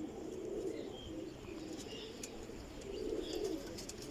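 Domestic high-flyer pigeons cooing: low, rolling coos repeating one after another, with a few faint high chirps over them.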